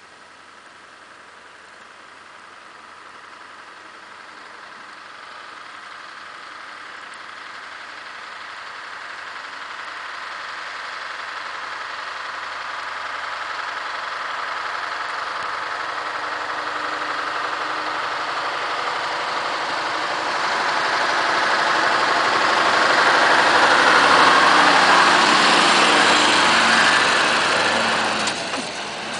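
Scania R580 timber truck's V8 diesel engine approaching and passing, growing steadily louder over about twenty-five seconds, then dropping off sharply near the end.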